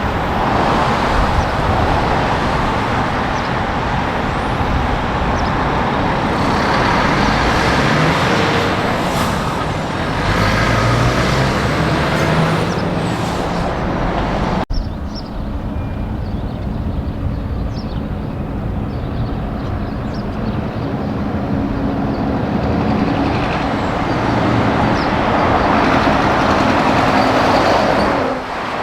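Heavy truck traffic. A truck's engine accelerates, its pitch climbing in steps through gear changes. After an abrupt cut about halfway through, another truck goes by with a steadier engine note over tyre and road noise.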